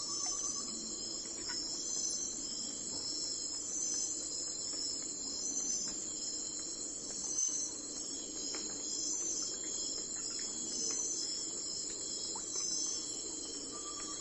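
A steady chorus of insects trilling high and pulsing, with a few faint clicks scattered through it.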